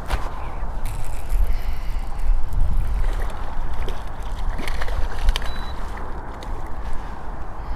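Water sloshing and gurgling around a fishing kayak, over a steady low rumble, with a few light clicks.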